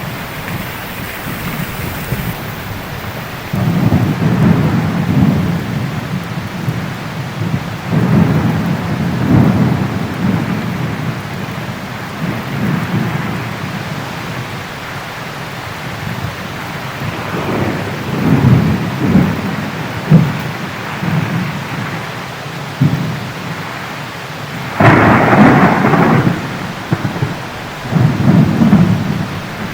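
Steady heavy rain with thunder rolling in low rumbles again and again, and a louder, sharper thunderclap about 25 seconds in.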